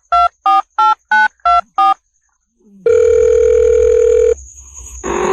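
Telephone keypad tones dialed in quick succession, about three beeps a second, followed by one steady telephone tone lasting about a second and a half. Near the end a cat starts a rising meow.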